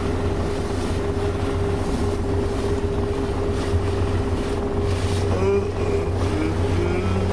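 Boat's engine droning steadily, with a constant hum over the low drone, heard from inside the vessel.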